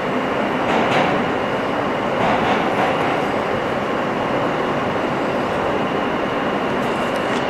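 Inside an R160 subway car running at speed: a steady rumble of wheels on rail with a faint, constant high whine and a few light clicks from the track.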